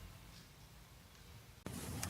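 Faint background hum, then an abrupt cut about one and a half seconds in to louder outdoor background noise.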